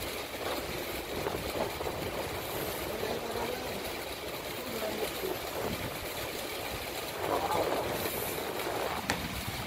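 Steady running noise of a MEMU electric train heard from inside the moving coach, wheels rumbling along the rails. A single sharp click comes near the end.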